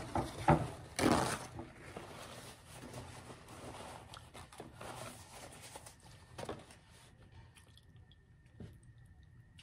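Close-miked mouth sounds of someone eating: a few loud sharp bites or crackles in the first second and a half, then softer wet chewing that thins out toward the end.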